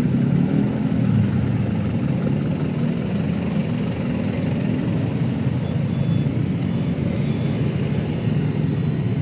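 Steady road traffic: a continuous low rumble of car engines and tyres on a busy city street.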